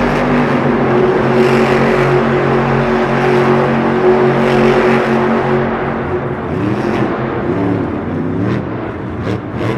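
Earth Shaker monster truck's supercharged V8 engine running hard at a steady high pitch, then, about six seconds in, revving up and down in quick swells.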